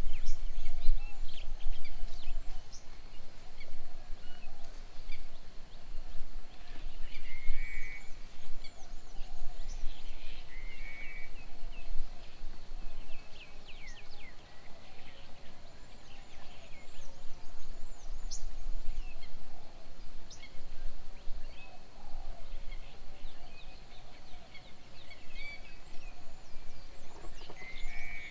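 Several wild birds calling around a bird table with many short chirps and quick downward-sweeping whistled notes. A burbling call repeats a few times. Underneath runs a steady low background rumble and a thin steady high tone.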